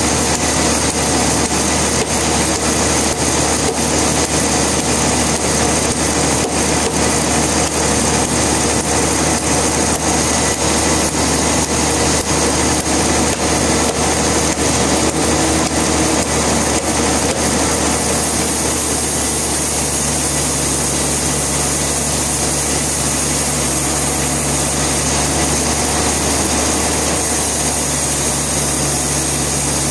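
Sawmill saw running steadily, with a rough, grainy sound for the first two-thirds. About two-thirds in it smooths into a steadier machine hum.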